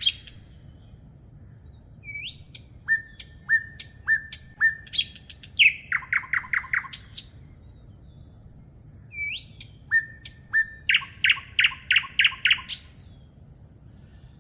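A songbird singing two phrases a few seconds apart, each opening with a rising note, then a few evenly spaced repeated notes, and ending in a fast trill of short downward-sweeping notes.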